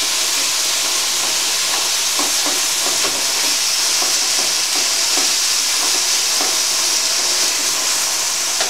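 Chicken strips frying in hot coconut oil with garlic and ginger, a steady sizzle, while a spatula stirs and scrapes them around the frying pan.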